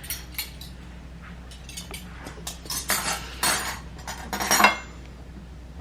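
Takeout food containers and utensils being handled: scattered clicks and clatter, then louder bursts of rustling and scraping about three, three and a half and four and a half seconds in.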